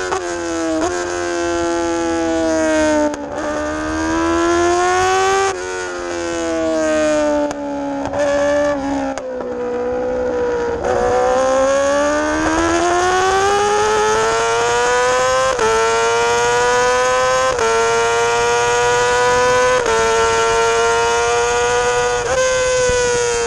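Yamaha R6 inline-four sport-bike engine at racing speed, its pitch falling and rising as it slows and accelerates through the first half. In the second half it pulls steadily higher, with short dips in pitch about every two seconds as it shifts up.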